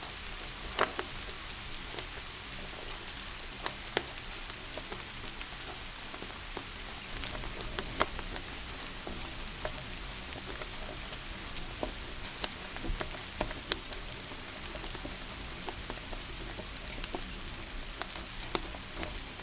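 Steady rain hiss mixed with a wood fire in a fireplace crackling, its sharp pops coming at irregular moments over the rain.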